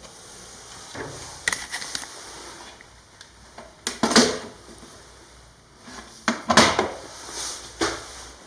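Irregular knocks and rubbing or scraping sounds in a small room, loudest about four and six and a half seconds in.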